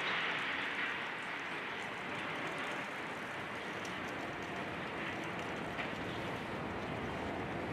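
Steady mechanical noise from a building demolition site, with a few faint knocks.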